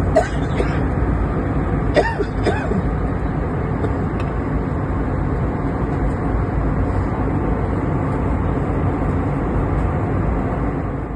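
Steady cabin noise of a passenger jet airliner in flight, a constant even rush that is heaviest in the low range. A few brief faint higher sounds come near the start and about two seconds in.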